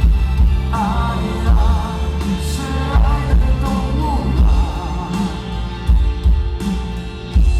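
Rock band playing live with a singer's voice over it, driven by heavy kick-drum beats.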